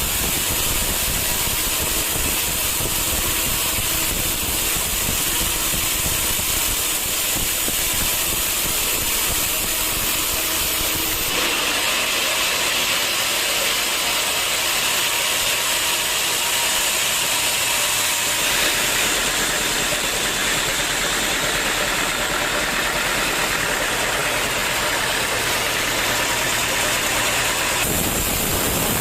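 Sawmill machinery running with a steady, loud, noisy drone. About eleven seconds in the sound abruptly turns brighter and hissier, and it switches back near the end.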